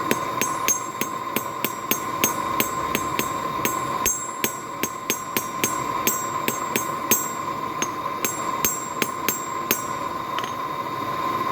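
Hand hammer striking a mild-steel belt buckle on an anvil, about three blows a second with a short pause about two thirds of the way through. Each blow rings like a bell as the piece is cleaned up after drawing out.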